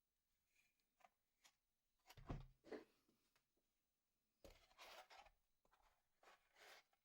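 Near silence with a few faint rustling and light knocking handling noises, in short bursts about two seconds in, about four and a half seconds in, and near the end.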